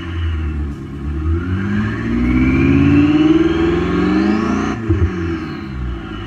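Thor active sound system on a Tesla Model Y playing a synthetic combustion-engine exhaust note through its speakers as the EV accelerates. The note rises steadily in pitch for several seconds, then drops abruptly, like a simulated gear change, and falls away near the end.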